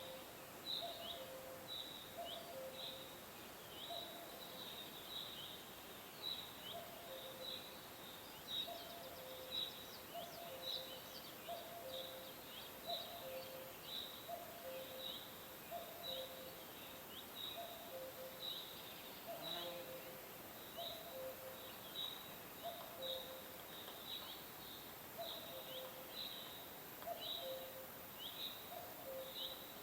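Birds calling: short high chirps repeating a couple of times a second, over a lower two-note call that repeats about once a second, with a faint steady hiss behind.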